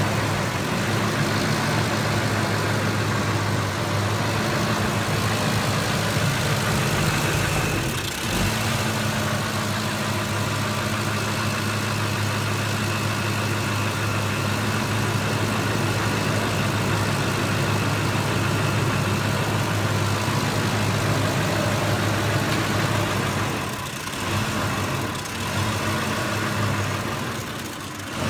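2005 Ford F-150's 5.4 Triton V8 idling roughly, stumbling briefly about eight seconds in and twice more near the end. The rough idle is the fault traced to a corroded fuel pump driver module whose exposed circuit board was shorting out.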